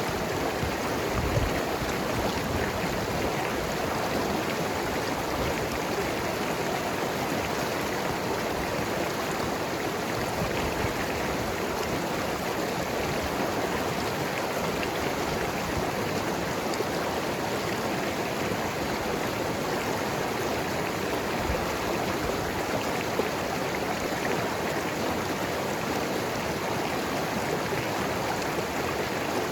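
Mountain river running steadily over rocks, a continuous rushing and gurgling of water.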